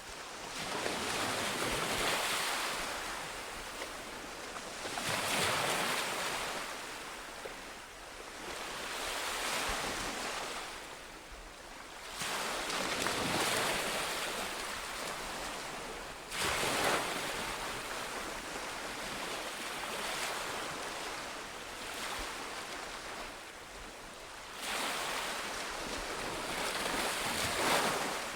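Ocean waves breaking and washing up on a beach, swelling and receding in a steady rhythm every few seconds, with a few sharper surges as bigger waves break.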